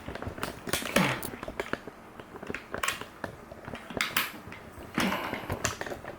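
Small plastic toy tool pieces clattering and knocking as they are handled and set down, a run of irregular clicks and taps.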